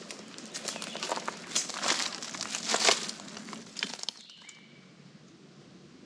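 Crunching and rustling of footsteps through dry leaf litter, with sharp crackles, that stop about four seconds in. A brief falling chirp follows, then quiet outdoor background.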